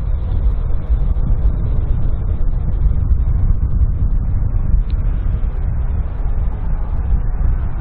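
Airbus A330 twin-engine jet airliner on landing approach, a steady low jet rumble.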